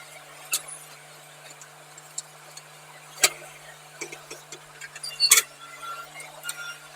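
Scattered sharp clinks and knocks of broken concrete chunks, three of them louder (about half a second in, past three seconds and past five seconds), over a steady low hum.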